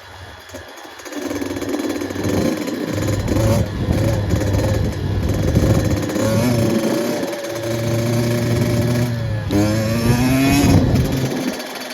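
Dirt bike engine running, growing louder after about a second and holding a steady note, then revving with a rising pitch near the end before dropping back.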